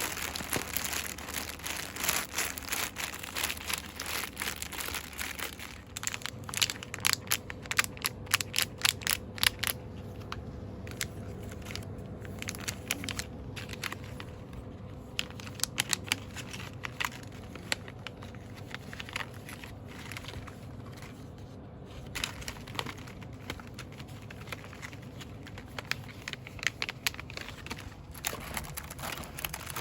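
Cosmetics packaging rustled and crinkled quickly by hand, close to the microphone. It is broken up by bursts of rapid sharp taps, several a second, about a quarter of the way in and again near the end.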